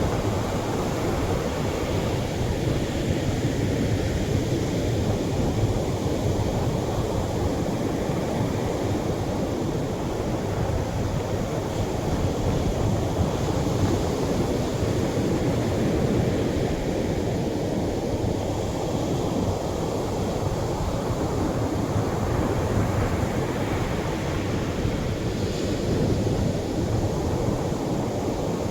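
Atlantic surf washing gently onto the shore: a steady rush of waves that swells and eases slowly.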